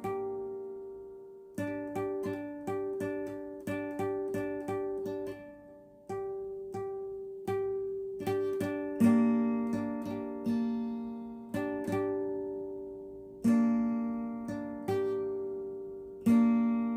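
Acoustic guitar playing one chord by feel, the same notes plucked and strummed at an unhurried, uneven pace. Each stroke rings and fades before the next, with a few harder strums standing out.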